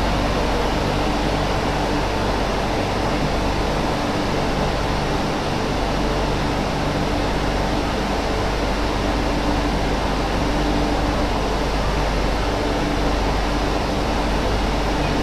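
Steady cabin noise inside an MTR Tsuen Wan line Q-train carriage: an even hum and hiss, typical of the ventilation and train equipment, with a few constant low tones and no change in pitch.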